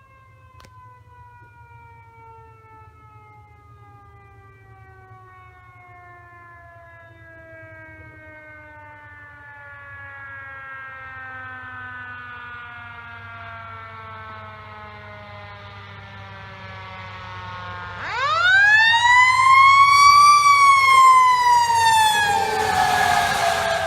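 A fire engine's mechanical siren coasting down in a long, slow falling wail, then wound up sharply about 18 seconds in to a loud peak and starting to fall again, over the low hum of the engine. The apparatus is drawing closer, so it grows louder near the end.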